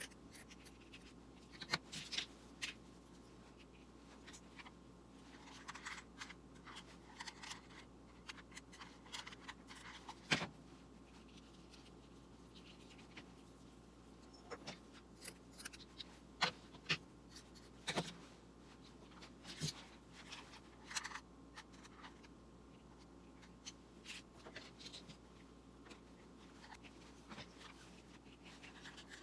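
Handling noises: scattered light clicks, taps and rustles over a faint steady hum, with one sharper click about ten seconds in.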